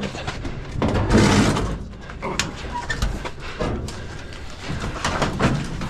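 Scrap being shoved and slid into a pickup truck bed: a loud scraping rush about a second in, then scattered knocks and clunks as it settles.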